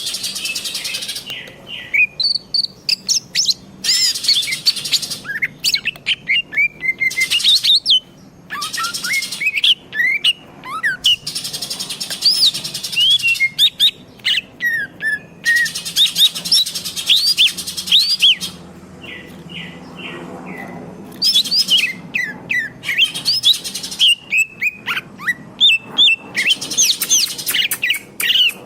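A green leafbird (cucak hijau) singing vigorously: fast phrases of whistled notes sweeping up and down, mixed with harsher chattering stretches, broken by short pauses.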